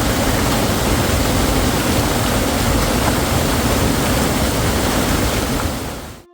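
Waterfall: a loud, steady rush of falling water that cuts off suddenly near the end.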